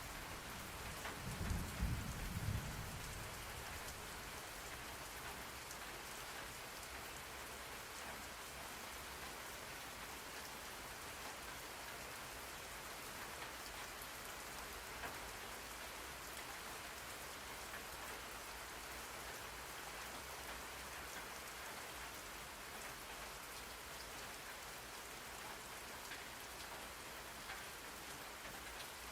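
Steady rain falling, with a short low rumble of thunder about two seconds in.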